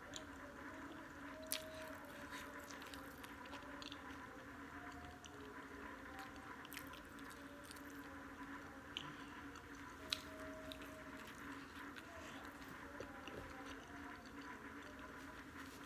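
A person chewing with the mouth closed: faint, wet mouth clicks and a few sharper clicks over a steady low hum.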